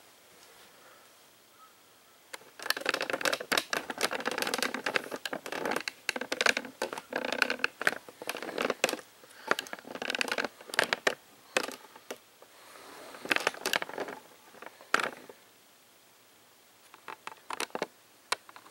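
Handling noise as the camera is picked up and moved: irregular rustling, scraping and clicking for about twelve seconds, then a few quick clicks near the end.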